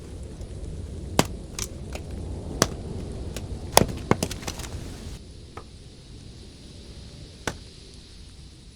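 A few sharp, irregular knocks over a low steady rumble; the rumble drops away about five seconds in, leaving a single knock near the end.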